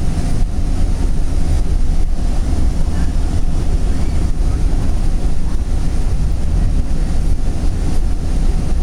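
Steady low rumble of a moving commuter train heard from inside the passenger coach, the running noise of the car rolling along the track at speed.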